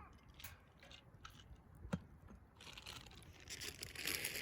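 A few scattered clicks and one sharp knock about two seconds in, then a dense run of crunching and crinkling through the second half.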